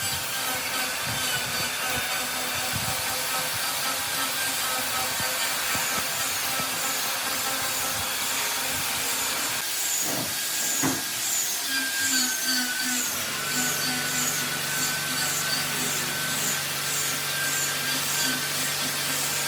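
Power tool working on wood, a steady grinding noise with a steady low motor hum joining about two-thirds of the way through.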